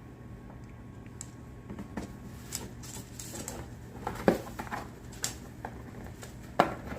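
Blue-and-gold macaw scratching and rustling inside a cardboard box, irregular crinkles, taps and scrapes, with a few sharper snaps in the second half.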